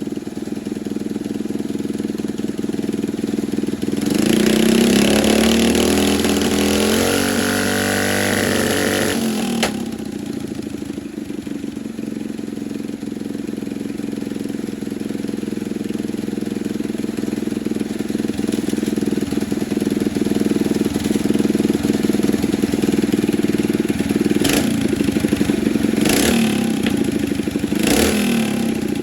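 Predator 212 single-cylinder four-stroke engine of a Coleman B200R mini bike idling on a freshly fitted 115 main jet, revved up for about five seconds starting around four seconds in, pitch climbing, then settling back to idle. Three short sharp noises near the end.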